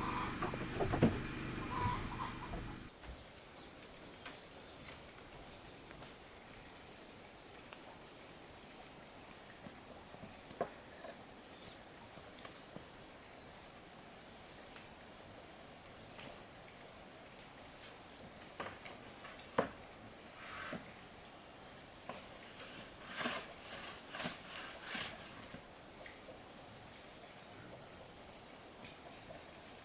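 Crickets trilling in a steady, high-pitched chorus that comes in suddenly about three seconds in, after a few knocks, with a few faint knocks scattered through it.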